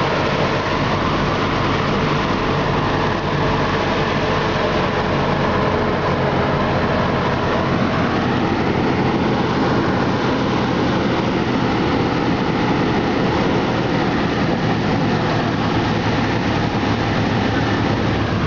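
Bus engine running steadily with road noise, heard from inside the moving bus.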